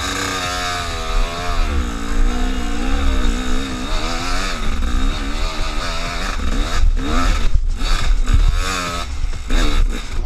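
Motorcycle engine revving, its pitch rising and falling over and over, with a few short breaks in the second half.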